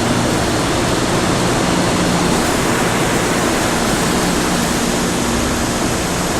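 Steady, loud noise of pulp mill machinery, a constant rushing din with a faint low hum underneath and no breaks or changes.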